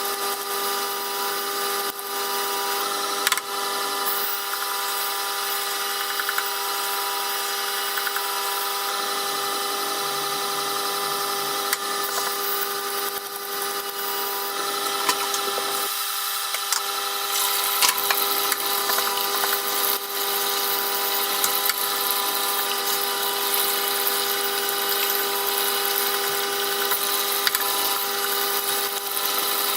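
Jet water sharpening machine running with a steady motor hum, a knife blade being ground against its fine stone of about 1000 grit with a hiss over the hum.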